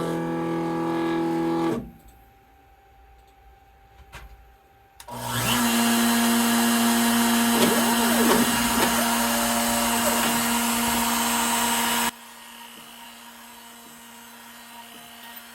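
CNC router surfacing a mahogany slab with a 1.5-inch fly-cutting bit. A steady motor whine stops about two seconds in. About five seconds in, the spindle and cutter start a loud, steady run that lasts about seven seconds, then drop suddenly to a quieter steady hum.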